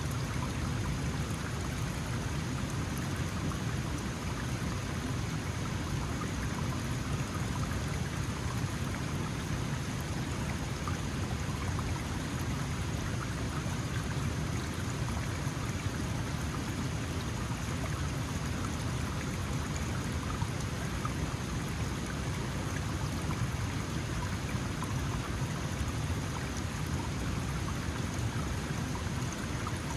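Small mountain stream running over stones: a steady, even rush of flowing water with fine splashes and trickles.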